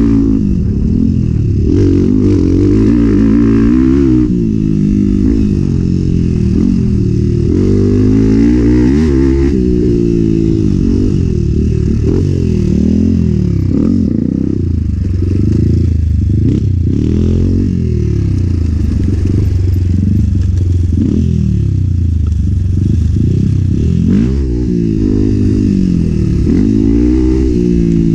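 Enduro dirt bike engine being ridden hard, its revs climbing and dropping again and again every second or two, with a few clattering knocks along the way.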